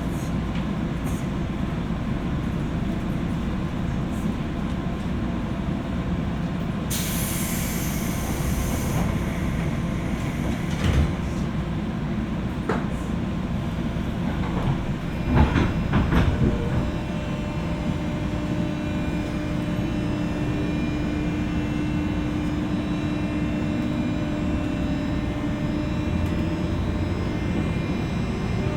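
JR West 201 series electric train car running, heard from inside above its armature chopper: a steady wheel and track rumble. A brief high hiss comes about a quarter of the way in and a few loud knocks around the middle. Steady whining tones run through the second half.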